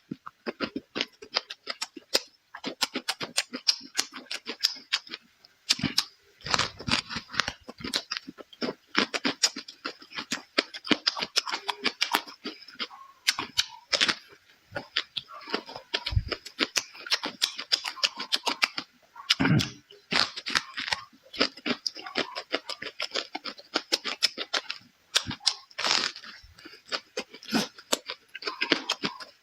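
Close-miked chewing and lip-smacking of a person eating: rapid wet clicks and smacks, many a second, with a few longer slurping breaths.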